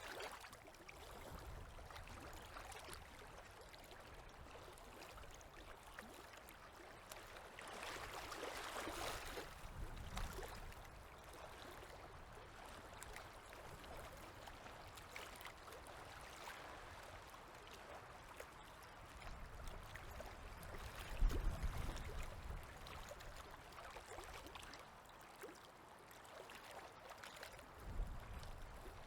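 Small river waves lapping softly at the shore, a faint steady wash that swells louder about eight seconds in. A few short low thumps come near the end.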